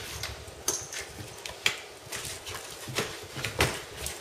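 A series of sharp knocks or clicks, spaced unevenly about a second apart.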